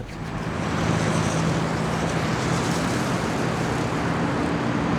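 A motor vehicle running: steady road noise with a low engine hum, building up over the first second and then holding steady.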